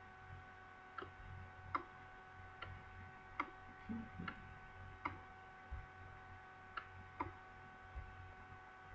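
Faint, sharp clicks at uneven intervals, about one a second, over a steady electrical hum.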